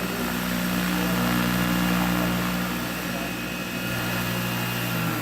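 Electric 1:11 scale RC model Chinook's tandem rotors, driven by a single electric motor, running with a steady hum of several pitches that drops slightly in pitch near the end.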